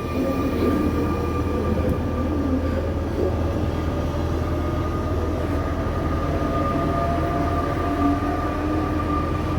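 RER C Z 20900 double-deck electric train running: a steady electrical hum held on one high note over a continuous low rumble, with no wheel clatter beat.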